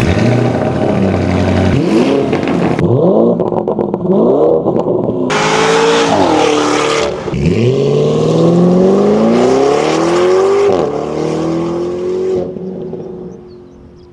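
Lamborghini Urus twin-turbo V8 through a titanium valved catback exhaust, revving and accelerating hard. Its pitch climbs several times with drops between, as at gear changes, with a loud rushing noise over it for about two seconds midway, before it fades away near the end.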